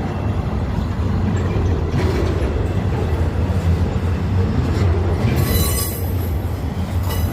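Train rolling past with a steady heavy rumble; its wheels squeal on the rails in a high, ringing screech for about a second, a little past the middle.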